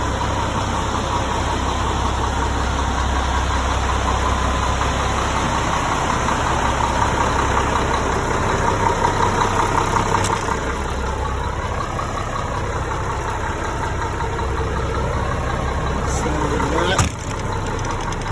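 Diesel engine of a Mack concrete pump truck idling steadily, with a single sharp click near the end.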